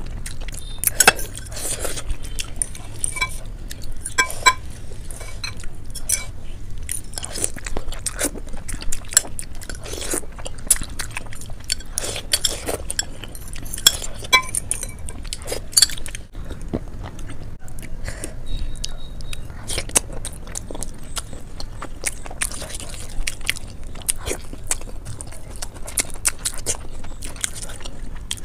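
Close-miked eating: steady wet chewing and biting of noodles and other food, with a few light clinks of a metal fork against glass bowls.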